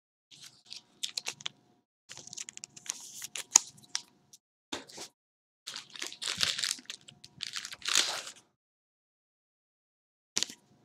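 Trading cards and their plastic wrapping or sleeves being handled, crinkling and rustling in several bursts, with a short final crinkle near the end.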